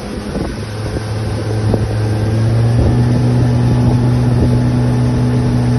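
Suzuki outboard motor running steadily as the boat travels, growing louder about two and a half seconds in and holding there, with wind on the microphone.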